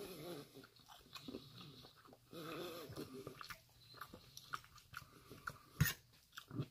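Quiet close-up chewing and mouth sounds of a person eating, with a few sharp clinks of a metal fork against a metal bowl, the loudest a little before the end.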